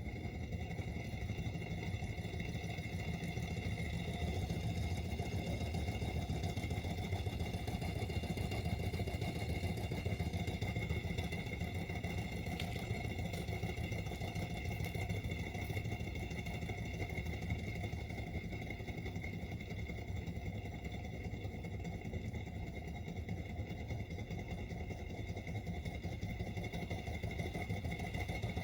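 Small model Stirling engine running steadily, driving a small generator, with a steady high whine over the low mechanical running.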